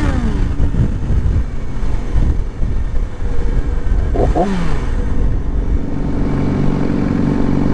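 Yamaha R6 sport motorcycle's engine running on the move. Its note falls about four seconds in, then holds steady.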